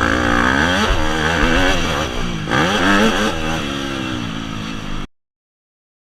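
Dirt bike engine revving, its pitch rising and falling repeatedly with the throttle. The sound cuts off abruptly to dead silence about five seconds in.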